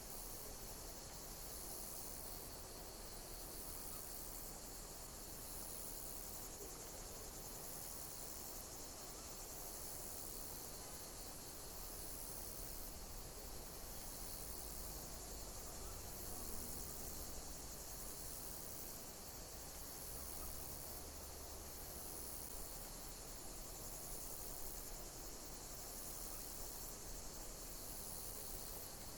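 Insects chirping in high-pitched pulses that repeat about once a second, over a steady low hiss.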